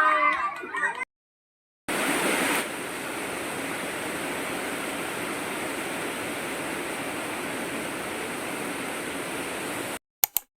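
Heavy rain falling steadily, an even hiss that starts abruptly after a cut, slightly louder for its first moment. It stops at another cut near the end, followed by two short clicks.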